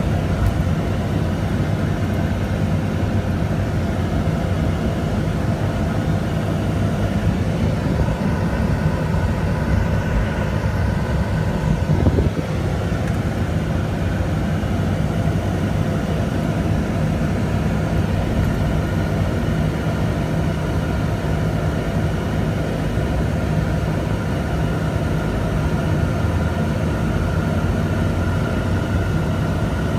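A steady engine drone with a low rumble, unchanging throughout, with a single brief knock about twelve seconds in.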